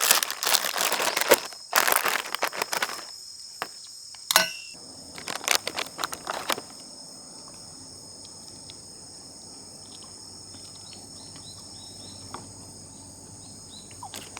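Crinkling and rustling of a just-opened package being handled for the first few seconds, then a few scattered clicks and knocks. A steady high-pitched chorus of crickets and other insects runs throughout and is all that is left after about seven seconds.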